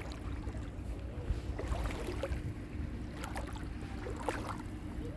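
Boat engine running steadily with a low rumble and a steady hum, with a few short splashes or knocks over it.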